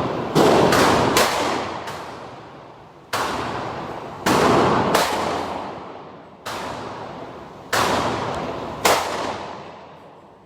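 Gunshots at a firing range: about ten single shots, irregularly spaced from a fraction of a second to about 1.5 s apart, each followed by a long echoing decay.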